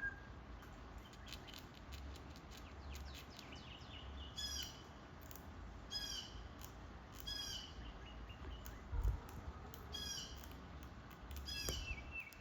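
A bird calling outdoors: short, pitched calls repeated every second or two, with fainter high chirps, over a low rumble. One louder knock comes near the middle.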